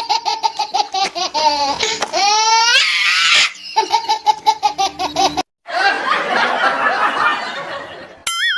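Loud hearty laughter in quick repeated bursts, breaking off briefly about five and a half seconds in and resuming; a short wobbling tone sounds near the end.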